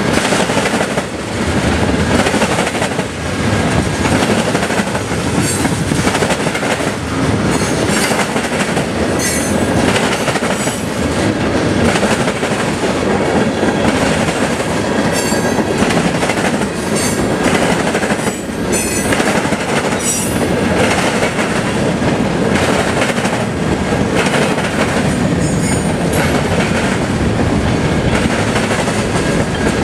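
CSX freight train rolling past, its cars' wheels on the rails making a steady loud rumble, with brief high-pitched wheel squeals every second or two.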